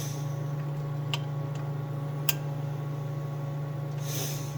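Bird wattmeter plug-in element being handled and seated: two sharp clicks and some soft rustling over a steady low hum.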